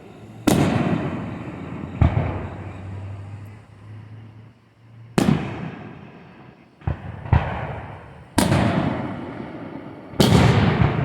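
Fireworks shells bursting overhead: five big bangs and two smaller cracks over about eleven seconds, each followed by a long rumbling echo that fades away.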